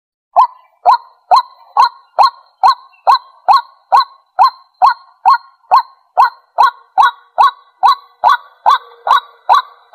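White-breasted waterhen calling, a short honking note repeated at an even pace a little over twice a second, starting about half a second in.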